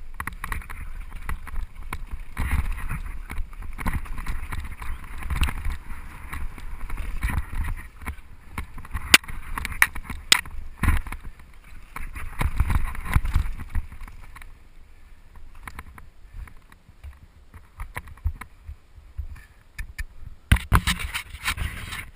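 Downhill mountain bike descending rough ground, heard from a camera mounted on the bike or rider: a low rumble of tyres and wind with the bike rattling and knocking over bumps, several sharp knocks about midway. It goes quieter for a few seconds near the end, then rattles again.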